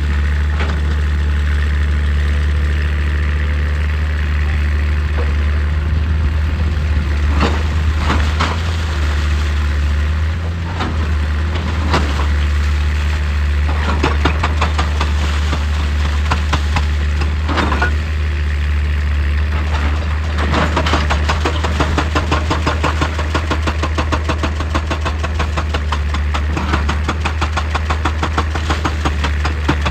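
Excavator's diesel engine running steadily with a deep drone, with scattered scrapes and crunches of rock. From about 20 seconds in, a fast, continuous rattling joins it.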